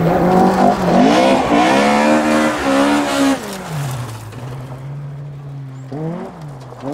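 Opel Kadett C Coupe rally car's engine revving hard on a gravel stage. The pitch dips briefly about a second in, then climbs. About four seconds in it falls to a lower, quieter steady note, with a short rise in revs near the end.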